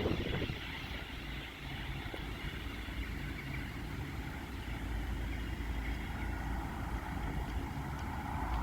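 Motor vehicle engine running with a steady low rumble, with no siren sounding.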